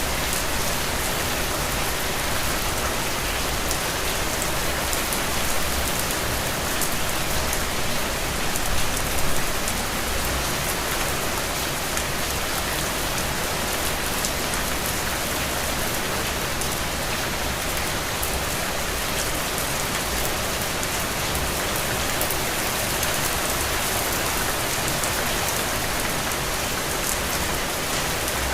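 Steady rain falling, with many separate drop hits heard through an even rush of noise. It is slightly louder for a moment about nine seconds in.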